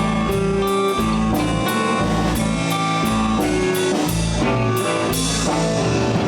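A live blues band playing a slow blues instrumentally between vocal lines: guitar lines over bass and a drum kit keeping a steady beat.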